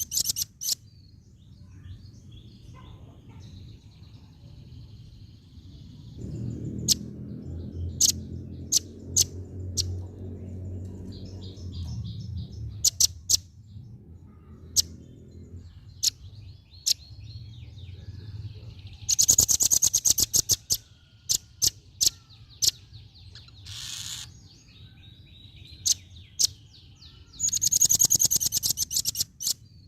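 Female velvet-fronted nuthatch calling: sharp, high single notes scattered throughout, broken by fast, loud trills at the start, about two-thirds of the way in and near the end. A low rumble sits underneath for a few seconds early on.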